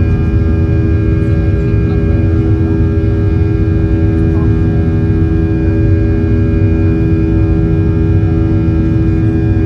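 Boeing 737 jet engines heard from inside the cabin, running steadily at high power: a loud low rumble with several unchanging whining tones on top.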